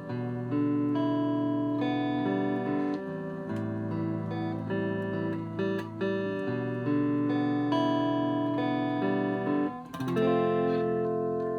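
Electric guitar played on a clean tone, chords and notes ringing out one after another, with a short break about ten seconds in before a fresh chord is struck and left to sustain. Its tremolo block has been weighted with cast-in metal, and it is being played to hear the longer sustain.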